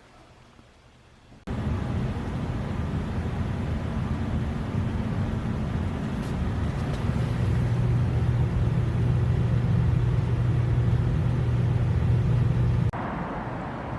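A car on the move, its engine and road noise a steady low hum. It starts abruptly about a second and a half in and cuts off shortly before the end.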